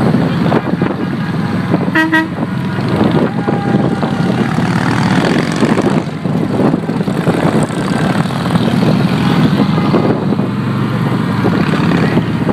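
Motorcycle engines running steadily, with a short horn toot about two seconds in.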